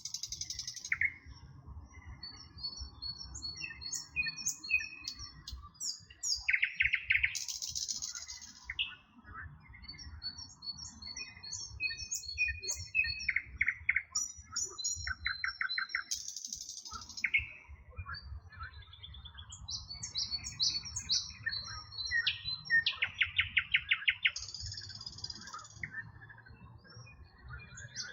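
Several songbirds singing over one another: short chirps and whistled notes, broken by rapid repeated trills now and then, over a low rumble.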